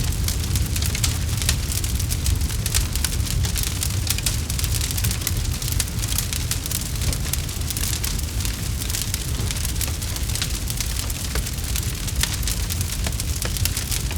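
Campfire burning, with dense irregular crackles and pops over a steady low rumble.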